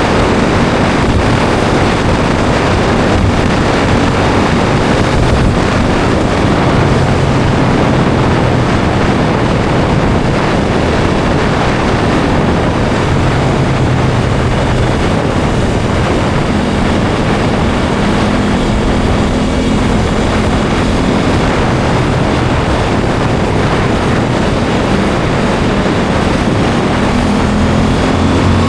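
Heavy wind rush over the microphone with the Aprilia Tuono 660's parallel-twin engine running steadily underneath while riding; right at the end the engine note starts to climb as it accelerates.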